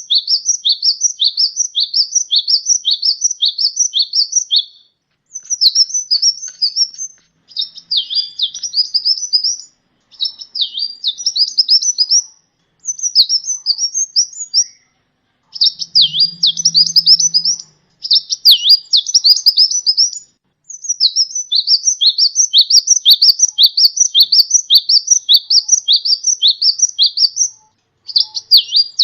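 Kolibri ninja (a sunbird) singing: runs of sharp, high, repeated notes, a few per second, in phrases of a few seconds broken by short pauses.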